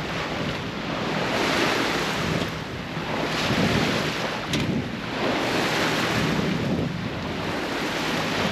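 Sea water rushing past a sailing yacht's hull in surges that swell and ease every two seconds or so, with wind buffeting the microphone.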